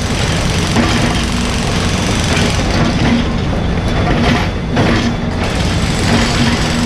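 Mini excavator's diesel engine running steadily at work, its low hum swelling and easing every second or two.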